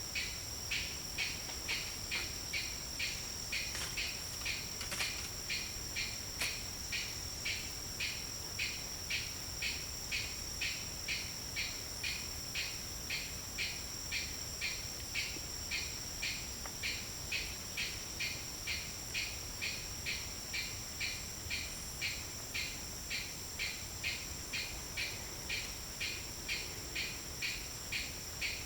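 Tropical forest insect chorus: a steady high-pitched drone, with a rhythmic pulsed call repeating about twice a second.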